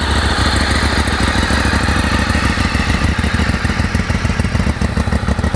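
2012 Ducati 848 EVO's liquid-cooled L-twin engine idling steadily with a rapid, even firing pulse. It runs smoothly with no abnormal engine noise.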